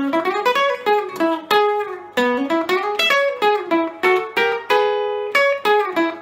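Epiphone Casino hollow-body electric guitar played clean through a Vox AC15C1X amp's Top Boost channel, picking a melodic single-note line that climbs and falls at a few notes a second.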